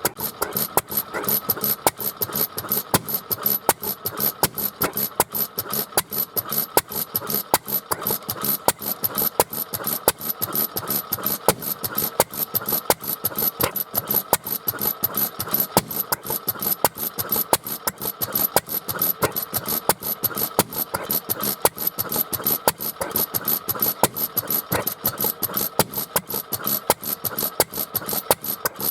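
Small engine running steadily on a test run after its ignition condenser was replaced, firing as an even train of sharp clicks, about six a second, over a mechanical clatter with a thin high whine.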